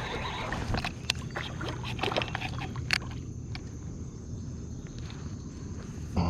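Handling noise in a fishing kayak: several sharp knocks and clicks in the first three seconds over a steady low rumble, then quieter.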